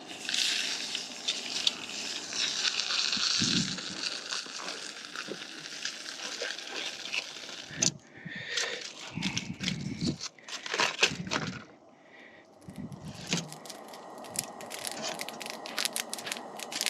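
Campfire crackling with crinkling, rustling handling noises and a few low thumps, then a run of fine, fast crackles over the last few seconds.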